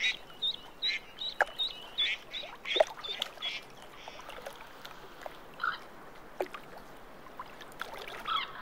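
Lakeshore ambience: a bird repeats short high chirps, about three a second, for the first few seconds, with a few soft ticks and lower calls later over a gentle wash of water at the shore.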